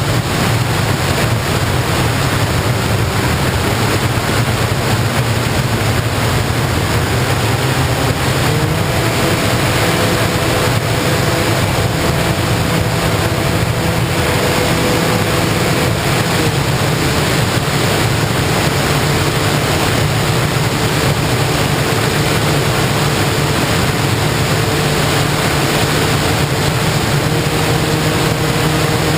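FPV model plane in flight: a steady, loud rush of wind noise with the electric motor and propeller humming beneath it. The motor's pitch steps up about eight seconds in and changes again about halfway through, as the throttle changes.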